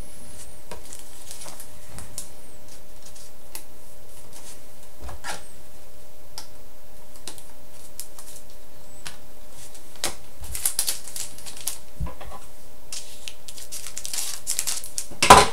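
Trading cards and a foil pack wrapper being handled: scattered light clicks and rustles, busier in the last few seconds, with one sharp snap just before the end.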